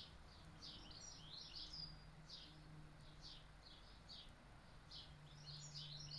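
Small birds chirping faintly: short high notes, each dropping in pitch, repeated about twice a second and bunched closer together now and then. A low steady hum fades in and out underneath.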